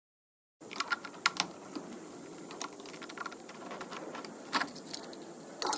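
Irregular small clicks and light taps of a hand tool working the screws out of a Stihl BR600 backpack blower's plastic air filter cover, over a faint steady hiss, after a brief dead-silent gap at the start.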